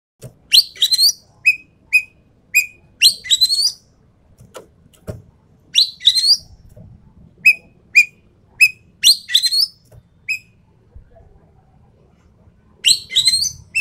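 Ekek keling, a Sumatran endemic bird, calling: clusters of harsh, rising chattering calls about every three seconds, with short clear whistled notes in between.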